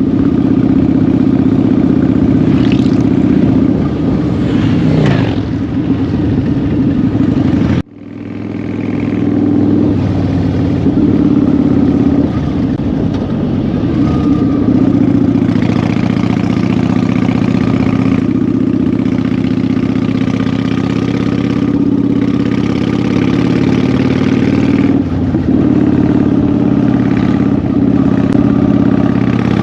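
Motorcycle engine running while riding, its note rising and falling a little with the throttle. The sound cuts out briefly about eight seconds in, then resumes.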